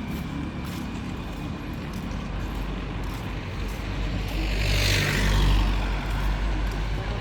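A motor vehicle's engine running steadily with a low rumble, and a rush of noise that swells and fades about five seconds in.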